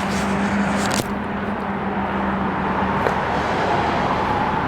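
Steady outdoor motor-vehicle noise, with a low engine hum that fades out about three seconds in.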